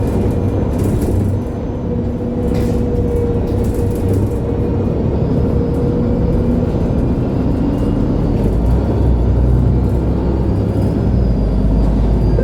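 MAN Lion's City G articulated diesel bus under way, heard on board: a steady engine and drivetrain rumble with a thin, even whine over the first part and a few light rattles. The low rumble grows heavier in the last few seconds.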